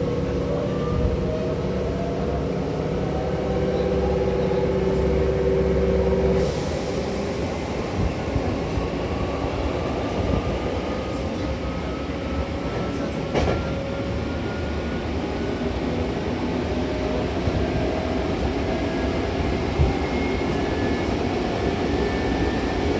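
Hankyu Takarazuka Line electric train accelerating: a whine from the traction motors climbs slowly in pitch over the steady running noise of the wheels and car, with the tones changing abruptly about six seconds in.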